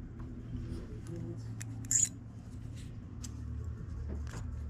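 Small clicks and a brief scrape from handling small parts while working on an RC car, over a steady low hum.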